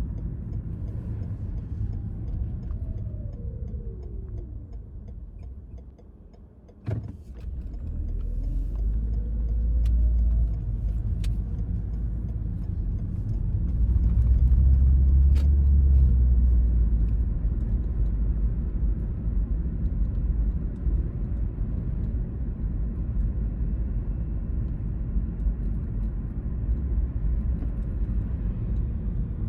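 Car driving on suburban roads, a steady rumble of engine and tyre noise. The pitch falls and the rumble dies down over the first six seconds as the car slows. A sharp click comes about seven seconds in, then the pitch rises and the rumble builds again as the car pulls away, loudest around the middle.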